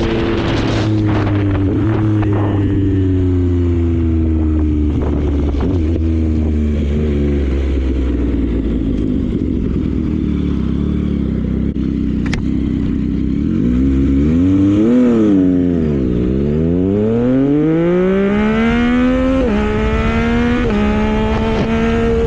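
Yamaha MT-09's inline-three engine on the move. Its note falls steadily as the bike slows over the first several seconds and holds low for a while. About halfway through the revs rise and drop quickly, then climb again under acceleration, with a couple of gear changes near the end.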